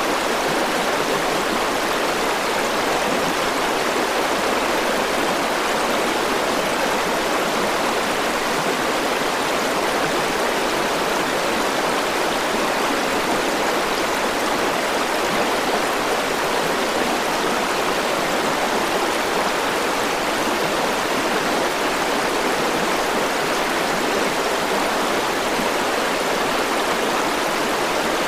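A river or stream rushing steadily, an even, unbroken sound of flowing water.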